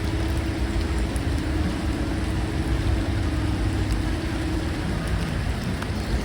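Steady rain falling in a forest, with scattered close drips ticking over a low rumble. A faint hum slowly falls in pitch over the first few seconds.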